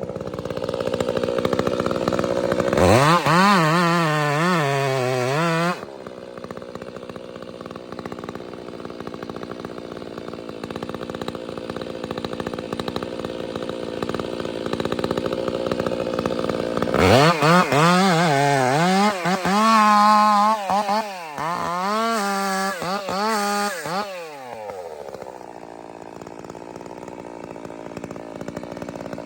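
Two-stroke chainsaw running at a low, steady speed, revved up to full throttle twice: briefly about three seconds in, then for about seven seconds past the middle. Its pitch wavers up and down while at full throttle.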